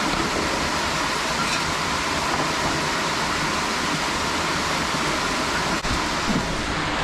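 Steady rush of water from a mountain stream and its cascades, an even, unbroken noise.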